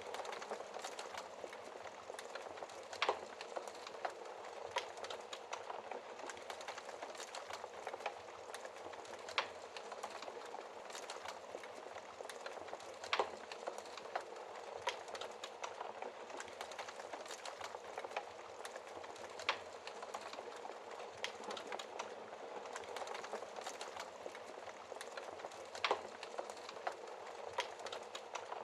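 Wood fire burning in a fireplace, fed with used wood: a steady hiss of flames with constant small crackles and about five louder, sharper pops spread through.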